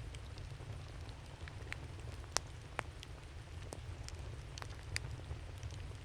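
Wood campfire crackling: irregular sharp pops and snaps over a steady low rumble, with the loudest pops a little over two seconds in and again near five seconds.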